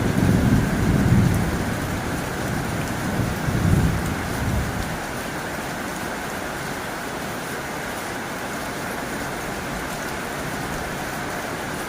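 Heavy rain drumming steadily on a tin roof. A low rumble swells twice in the first five seconds, then only the rain remains.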